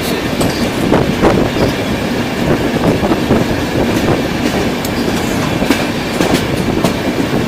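Indian Railways express passenger coach running along the track: a steady rumble with irregular clicks and clatter from the wheels over rail joints.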